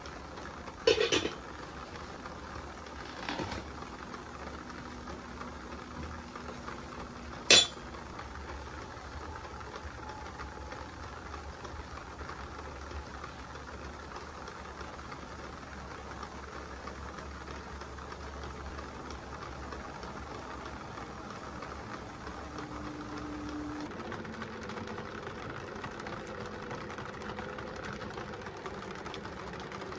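A few sharp knocks or clinks over a steady low hiss: a loud one about a second in, a weaker one a couple of seconds later, and another loud one near eight seconds.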